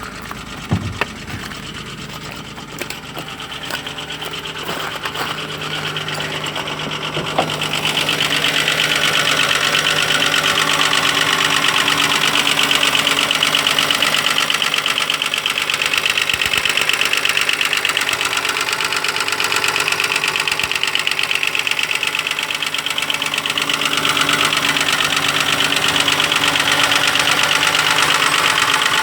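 Audi 2.8 FSI V6 engine running with a rapid, steady knocking, the knock the owner is recording. It gets louder about seven seconds in and stays so.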